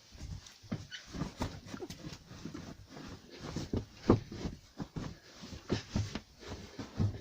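Cushions and bed panels being lifted and set in place: an irregular string of soft thumps, knocks and rustles, with a sharper knock about four seconds in.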